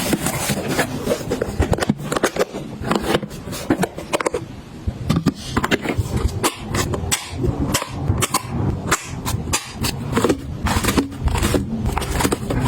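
Repeated clicks, knocks and clatter of small items being handled and set down during organizing and restocking.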